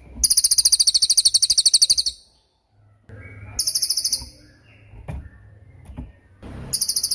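Cililin bird singing rapid, high, sharp trills: a long one of about two seconds, then a short burst just before the middle and another near the end.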